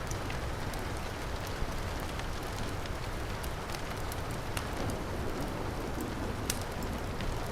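Heavy rain falling steadily, mixed with a fireplace crackling in sharp, scattered pops.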